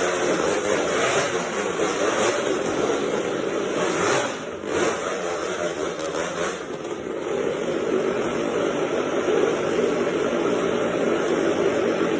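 Motocross dirt bike engine running hard, its pitch wavering up and down, with a brief drop in level about four and a half seconds in.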